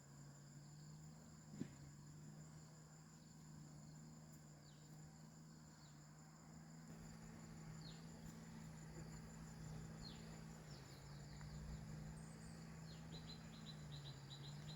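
Faint outdoor ambience: insects trilling steadily in a high, pulsing tone over a low steady hum. A few short chirps and, near the end, a quick run of ticks.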